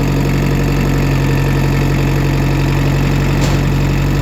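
Old tractor's engine idling steadily.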